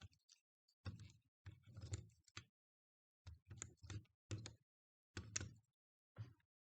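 Short clusters of clicks and clatter, roughly one cluster a second, from hand tools and parts being handled while a battery pack is taken apart.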